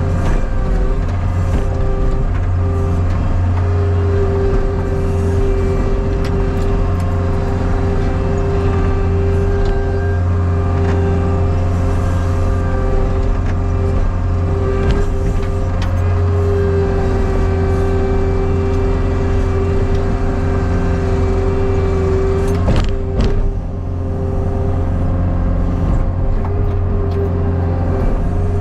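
Skid steer engine running steadily under load with a constant hydraulic whine, working dirt. A brief knock about four-fifths of the way through.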